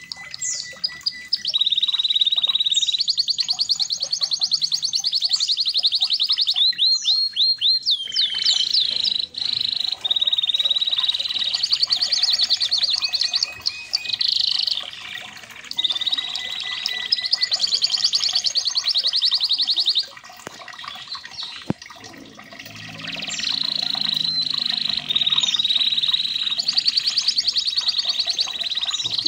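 Red canary singing a long, continuous song of fast, high trills and rolling runs of repeated notes. It dips briefly about two-thirds of the way through.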